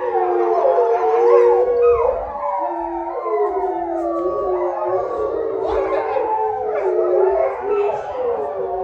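Several animals howling together in chorus, many long overlapping howls that rise and fall in pitch.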